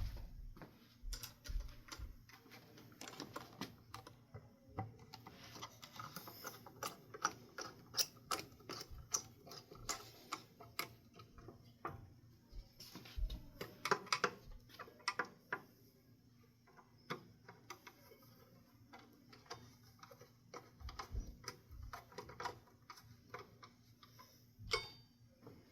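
Irregular small clicks, ticks and taps of screws and metal fan hardware being worked by hand as ceiling fan blades are fastened on, with a sharper ringing metallic click near the end.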